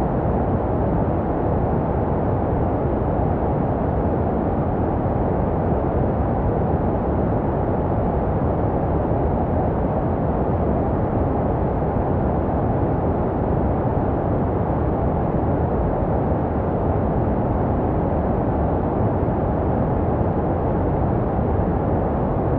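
Continuous baby-soothing white noise: an even, unbroken hiss that is deep and muffled, with little treble, made to resemble the sounds a baby hears in the womb.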